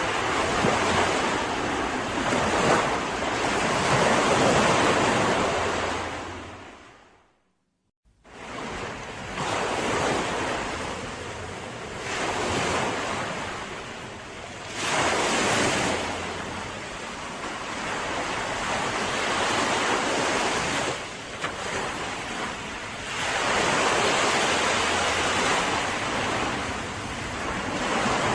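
Mediterranean sea surf breaking and washing up the shore in repeated swells. It fades out to silence for about a second, seven seconds in, then the waves come back.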